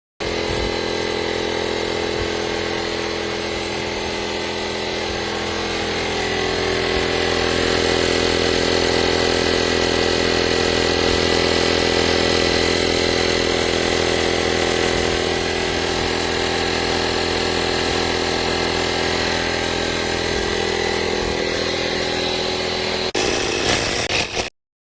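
Small 12V portable tire-inflator air compressor running with a steady motor hum. It starts abruptly, grows a little louder after several seconds, rattles briefly near the end and then cuts off abruptly.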